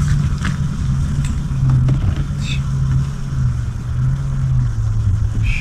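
A steady low mechanical hum, engine- or motor-like, with a few light clicks over it.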